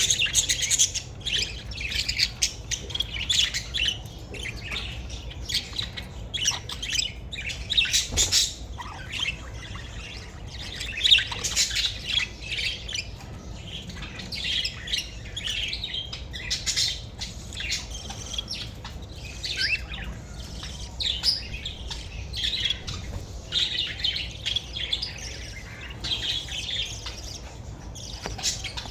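Young pet bird chirping and squawking in rapid, near-continuous short, high-pitched calls.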